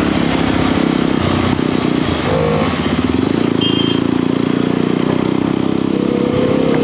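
Motorcycle engine running steadily while riding, with a slight rise in pitch near the end. A brief high tone sounds about three and a half seconds in.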